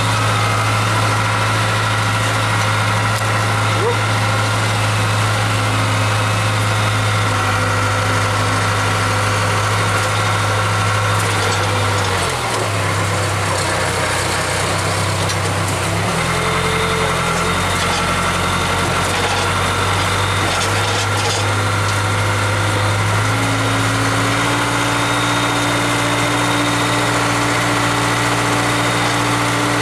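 Case 580K loader backhoe's diesel engine running steadily under work. Its note shifts several times as the revs change: it dips about halfway through, comes back up a few seconds later, and rises again near the end.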